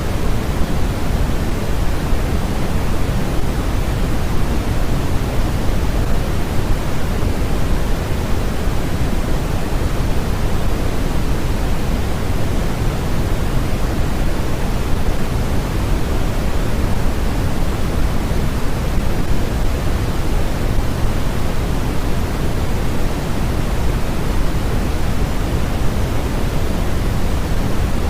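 Steady, unbroken generated noise for sleep or study, a constant hiss heavier in the low end than in the highs, with no change in level.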